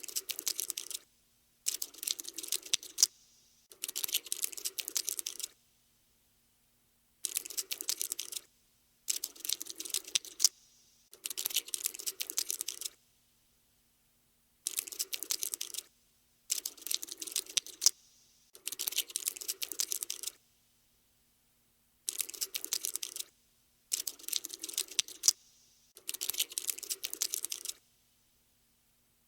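Cockroach scuttling sound effect: bursts of rapid, tiny clicks and scratches, each lasting one to two seconds and broken by short silences, about a dozen times in a row.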